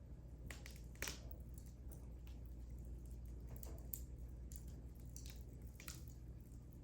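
Wood fire burning in a fireplace: quiet crackling with scattered sharp pops, the loudest about a second in.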